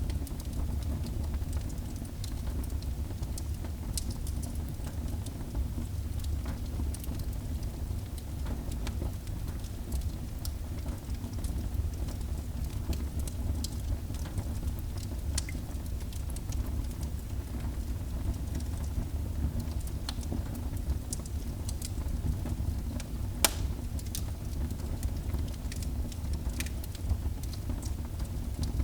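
Wood fire burning in a fireplace: a steady low rumble of flames with scattered crackles and snaps, and one sharper pop late on.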